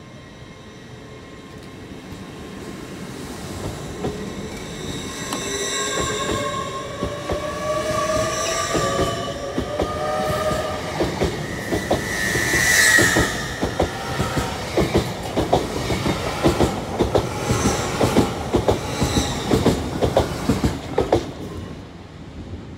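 LNER Hitachi Azuma passenger train running past along the platform. A whine climbs in pitch as it comes in, and a sharp wheel squeal sounds about halfway through. After that a long rapid run of wheel clicks over the rail joints fades as the last coaches go by.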